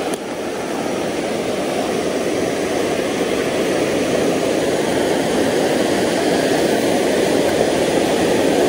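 Creek water rushing steadily over rocks, a loud even rush that grows slowly louder.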